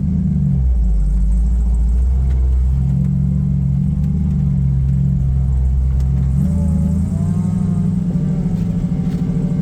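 A 1978 Chevy dump truck's 350 small-block V8 running under a heavy load. Its low engine note steps to a new pitch about two seconds in and again about two-thirds of the way through, turning rougher and more pulsing after the second change.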